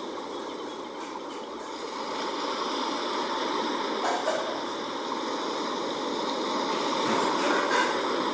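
Sea water washing and rushing in a steady, even wash, with small splashes about four seconds in and again near the end.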